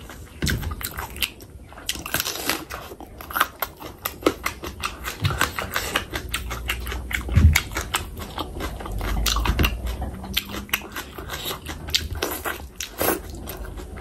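Close-miked wet chewing and lip-smacking of someone eating oily fish curry, a quick, uneven run of smacks and clicks.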